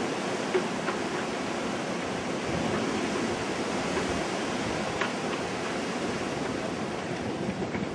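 Storm wind at gale force with waves on the water: a steady, dense rushing noise, with a couple of faint sharp ticks in it.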